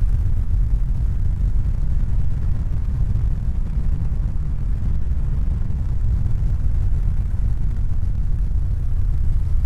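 A steady, deep rumbling noise that begins fading out near the end.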